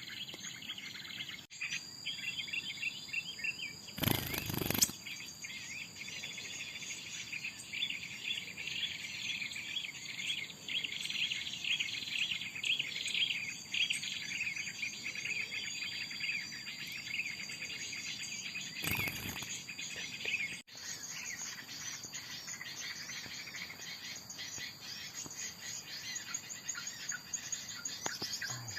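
Small birds chirping rapidly and continuously, with a steady high insect drone underneath. There are two short bumps, about four seconds in and again near the twenty-second mark.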